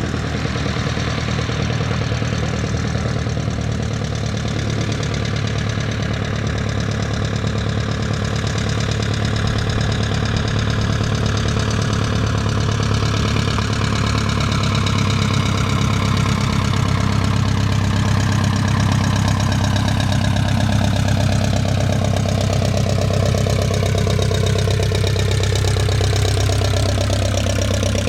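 1946 Cessna 120's four-cylinder engine running steadily at low taxi power, with a strong low hum. Through the second half a separate, higher sound glides slowly down in pitch.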